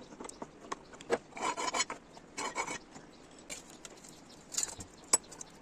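Two rasping strokes of a hand file across metal, about a second apart, with light clicks and small knocks between and a sharp tick near the end.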